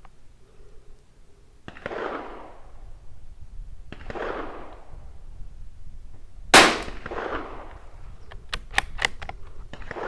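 .22 LR rifle shots: duller reports about every two seconds and one sharp, much louder shot about six and a half seconds in. A quick series of metallic clicks follows, the bolt of a bolt-action rifle being worked.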